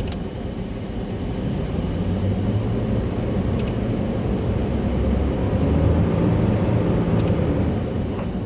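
2002 Fleetwood Storm motorhome engine idling steadily, a low drone that swells slightly a couple of times, in its first run after eight years of sitting.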